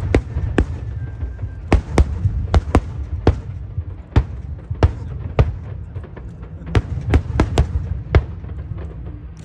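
Aerial fireworks exploding: more than a dozen sharp bangs at irregular spacing, some in quick clusters, over a steady low rumble.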